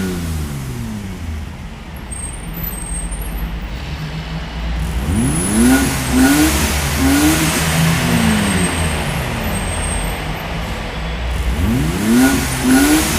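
Vehicle engine revving, rising and falling in pitch again and again over a steady low engine hum; the run of revs about five seconds in repeats near the end.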